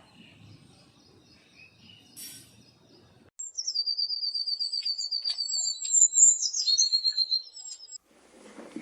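A small bird singing: fast runs of thin, high-pitched notes start abruptly a few seconds in and stop near the end. Before them, fainter bird calls sound over a low background hiss.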